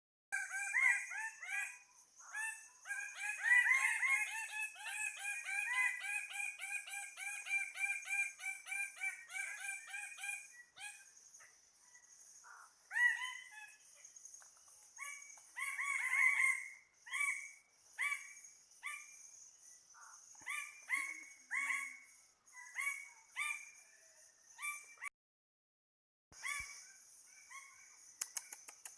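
Several birds calling with short, repeated notes, dense and overlapping at first and more spaced out later, over a steady high insect drone that breaks off briefly near the end.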